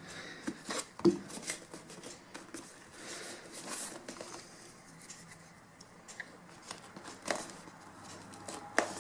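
Faint rustling and scattered light clicks of an upholstery cover being handled and pulled tight over a foam motorcycle seat.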